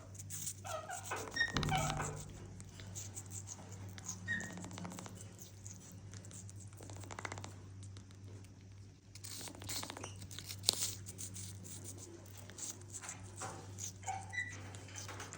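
Indian ringneck parrots making a few soft squeaks and short chirps, with light clicks and rustling in between.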